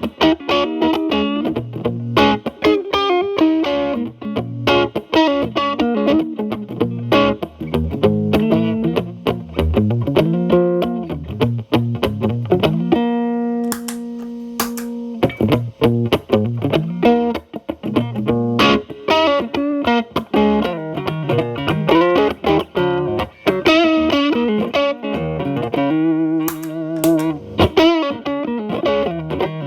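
Electric Telecaster played through an MI Audio Crunch Box distortion pedal into a Marshall Valvestate's clean channel. The pedal's gain is around 8 to 9 with its tone turned fully up. The playing is mostly quick single-note phrases, with one note held and ringing for about two seconds about halfway through.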